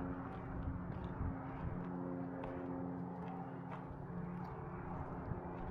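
Small airplane droning steadily overhead, a low hum with a few steady tones, over faint regular footsteps on the trail.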